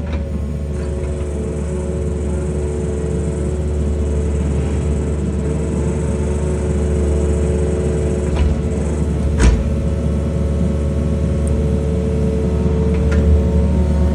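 Excavator's diesel engine running steadily under load, with a steady hydraulic whine, as it turns an auger drilling into stiff clay. A single sharp knock comes about nine and a half seconds in.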